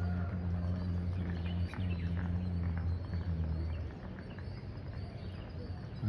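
Birds chirping over a loud low hum, which drops away about four seconds in.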